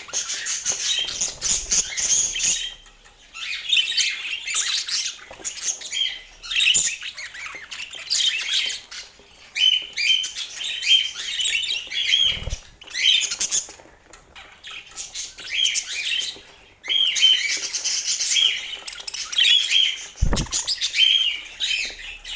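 Budgerigars chattering and warbling in quick bouts of chirps and squawks, broken by short pauses. There are two dull low thumps, about twelve and twenty seconds in.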